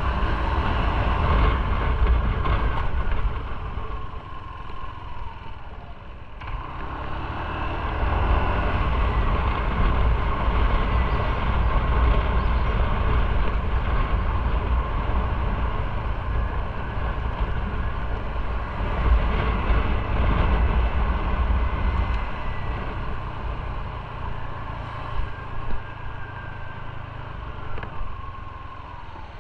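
Motorcycle engine running under way, with wind rush on the microphone. The engine note shifts with the throttle; it eases off about four to six seconds in, picks up again, and drops away near the end.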